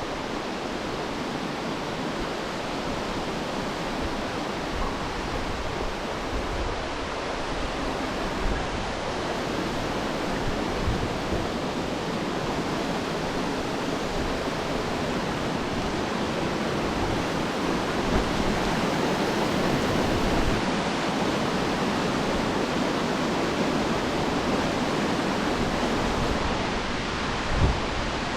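Rushing water of a mountain waterfall and its cascades, a steady dense hiss that grows gradually louder, with low wind rumble on the microphone and a brief knock near the end.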